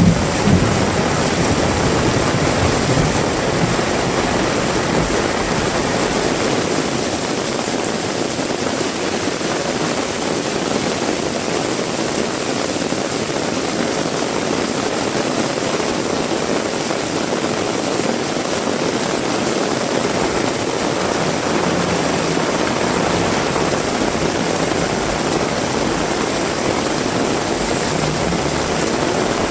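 Heavy rain pouring steadily, a dense, even hiss, with a couple of brief low bumps near the start.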